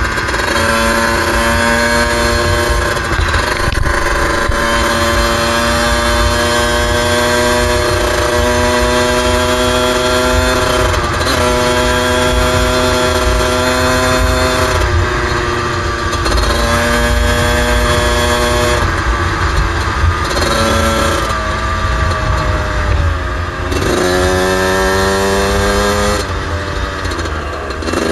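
Suzuki RM125 125 cc two-stroke engine running under way at a mostly steady throttle, with low wind rumble on the microphone. A few seconds before the end the revs drop, then climb again.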